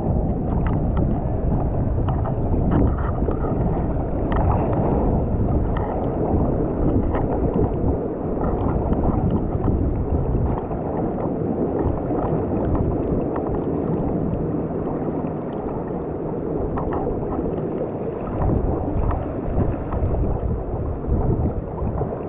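Steady, dull rushing of water and wind buffeting a kayak-mounted GoPro while kayak surfing.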